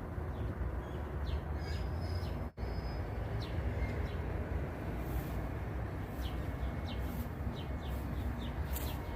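Outdoor park ambience: small birds chirping on and off over a steady low rumble. The sound cuts out for an instant about two and a half seconds in.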